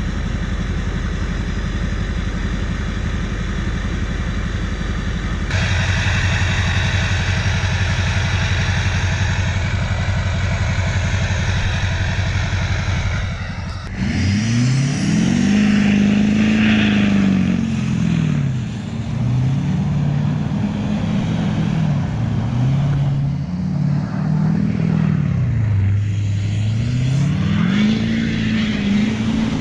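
LBZ Duramax 6.6-litre V8 turbodiesel running through a 3.5-inch straight pipe, with no muffler or catalytic converter. It idles steadily, stepping louder about five seconds in. From about halfway it is revved up and down over and over, the pitch climbing and falling every few seconds.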